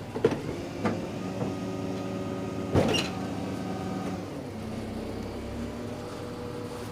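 Garbage truck's hydraulic bin lift running with a steady mechanical hum while tipping a wheelie bin into the hopper. The bin knocks against the lift a few times, loudest about three seconds in, and the hum shifts lower about four seconds in.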